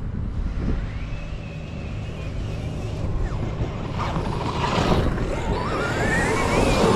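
Brushless electric motor of an Arrma Notorious RC stunt truck whining under throttle. The pitch rises about a second in, holds, drops a little past the middle, then climbs again over the last three seconds as the truck accelerates. A steady low rumble runs underneath.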